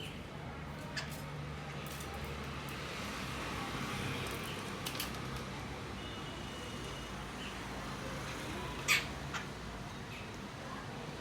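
Small birds chirping faintly over steady background noise, with a few sharp clicks, the loudest about nine seconds in.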